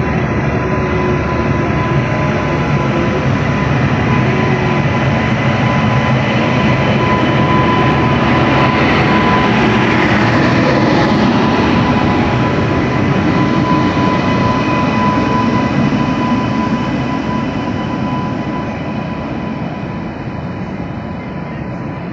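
Indian Railways goods train passing by, a continuous rumble and rattle of wagons on the track with a steady high tone running through it. It grows loudest about halfway through, then slowly fades.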